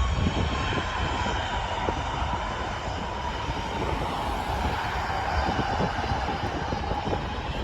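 Boeing 787-9 Dreamliner's Rolls-Royce Trent 1000 turbofans at takeoff thrust as the airliner departs, a steady jet rush with a whine that sinks slightly in pitch.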